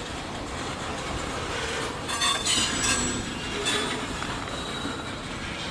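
Train rolling slowly over the rails, a steady rumble with brief high-pitched wheel squeals and clatter about two to four seconds in.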